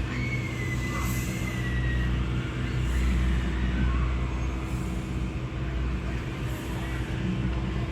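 Steady low rumble of an idling car heard from inside the cabin, with a short hiss every couple of seconds.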